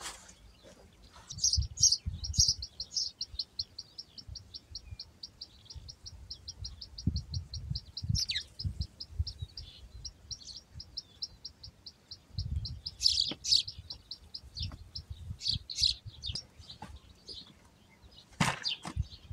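A small songbird singing a long, rapid run of identical high notes, about five a second, for roughly ten seconds. Other high chirps come before and after, with irregular low thuds underneath.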